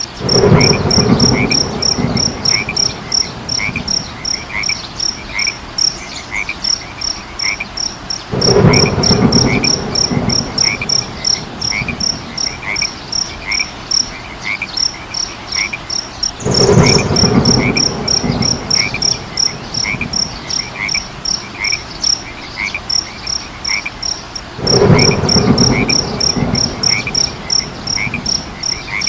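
A night chorus of frogs and insects calling in a steady rhythm: a high chirp about three to four times a second over a lower call about twice a second. A louder, lower croaking swells for a couple of seconds four times, about every eight seconds, which points to a looped recording.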